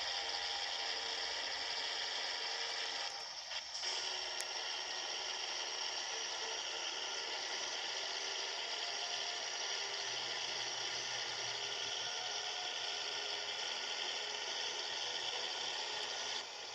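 Scania 111 truck running on the road: a steady mechanical whine and rattle made of several high steady tones. It dips briefly about three seconds in and again near the end.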